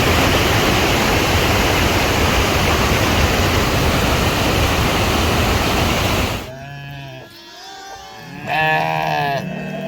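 A loud, steady rush of water noise cuts off suddenly about six seconds in. It is followed by farm animals calling in drawn-out, rising and falling calls; the calls are most likely cattle lowing.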